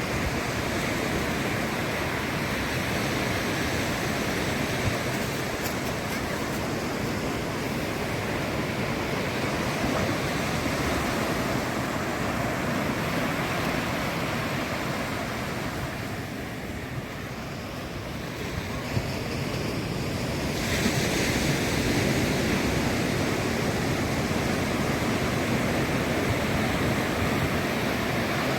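Ocean surf washing continuously onto a beach, a steady rushing noise. It eases a little past the middle, then swells again with a brighter hiss as another wave breaks about three-quarters of the way through.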